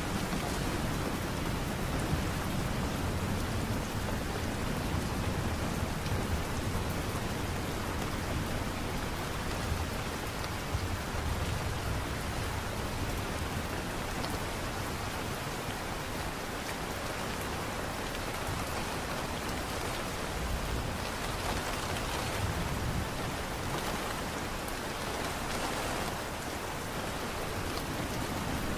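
Steady falling rain, an even hiss of drops, with low rumbles of distant thunder swelling now and then.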